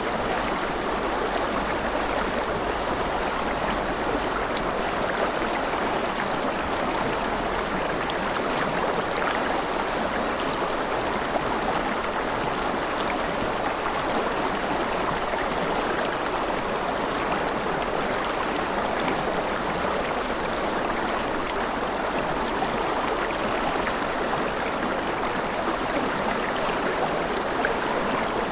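River water flowing and splashing steadily.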